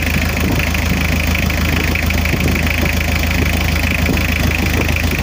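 2012 Mazda diesel engine idling steadily, running now that its fuel cut-off valve is getting power after it had only cranked without starting.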